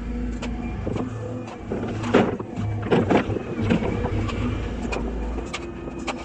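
Volvo excavator's diesel engine running steadily under work, with repeated knocks and clanks of the machine working, the loudest about two and three seconds in.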